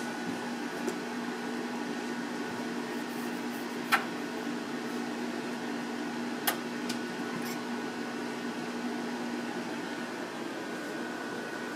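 Cat exercise wheel turning under a kitten, a steady whirring hum with two sharp clicks partway through; the low hum stops near the end.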